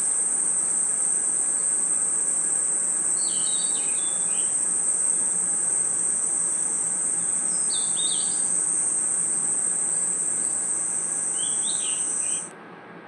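Night crickets and other insects trilling in a continuous high-pitched shrill that cuts off abruptly near the end. Short chirping calls come in small clusters every few seconds under it.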